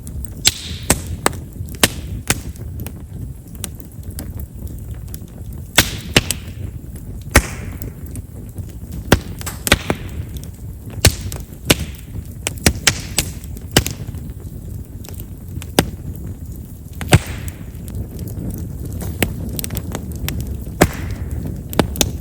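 Chestnut firewood burning in a campfire, crackling with many sharp, irregular pops and snaps over a steady low rumble, with a few short hisses that fall in pitch. Chestnut's large vessels make it a wood known for popping readily.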